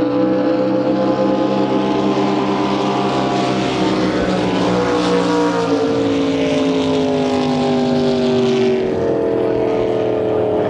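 Racing drag boat engine running loudly. About halfway through its pitch starts to fall slowly, and one of its deeper tones drops out.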